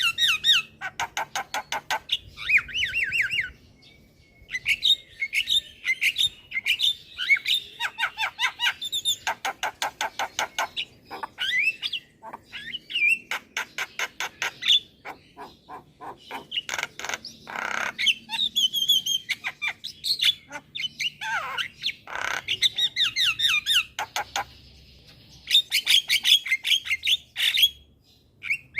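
Javan myna singing a loud, varied song. It is made of runs of rapid repeated chattering notes, gliding whistles and harsh squawks, in bouts broken by a few short pauses.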